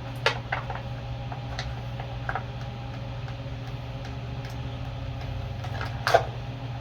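Scattered small clicks and taps of hand tools and metal parts being handled at a small engine's carburetor, with a louder tap about six seconds in, over a steady low hum.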